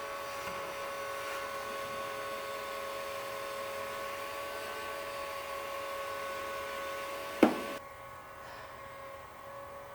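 Electric heat gun running with a steady motor whine and airflow hiss as it shrinks fabric covering. About seven and a half seconds in there is a sharp click, after which the hiss drops away and only a quieter hum remains.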